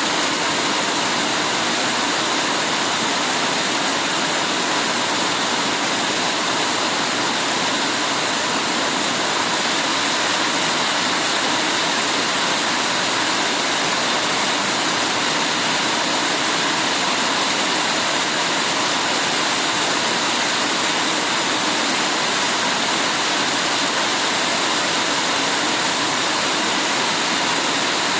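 Heavy rain falling in a steady, even hiss, with no let-up or single drops standing out.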